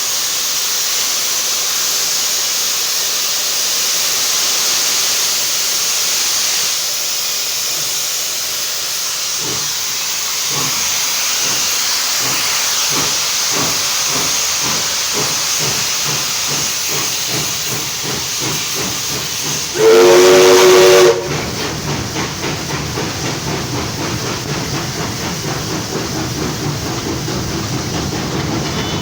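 Cab sounds of NSW 59 class steam locomotive 5917: a steady steam hiss, with exhaust beats coming through that quicken as the engine gets under way. About two-thirds of the way in, the steam whistle gives one loud blast of a second or so. Soon after, the hiss stops and the rattle of the running locomotive carries on.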